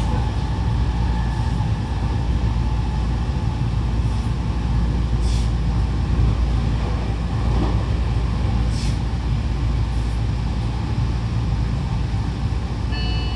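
E257 series 2000 electric train with a Mitsubishi IGBT inverter running at speed, heard inside by the door: a steady rumble of wheels on rail, with two short hisses about five and nine seconds in. Near the end a few high tones that step in pitch come in.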